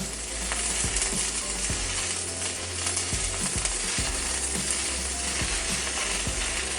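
Electric arc welding on a steel pipe: a steady crackling hiss like frying, with scattered small pops. It cuts off suddenly near the end as the arc is broken.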